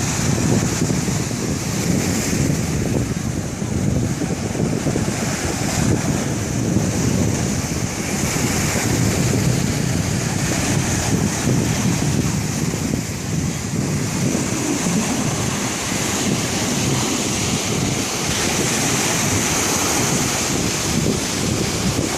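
Stormy sea: waves and surf churning under a strong wind that buffets the microphone in a heavy low rumble, with a steady high whistle of wind over it.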